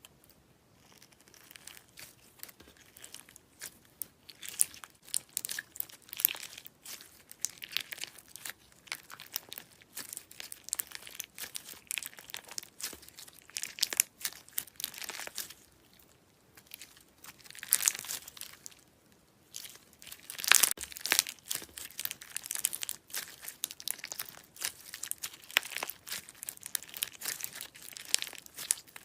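Slime being squeezed and worked by hand close to the microphone, giving dense crunching and crinkling crackles in bursts with short pauses.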